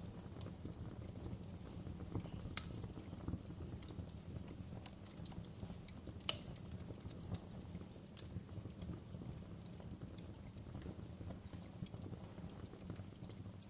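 Wood fire crackling: a steady low rumble of the flames with irregular sharp pops and snaps. Two louder pops stand out, about two and a half and six seconds in.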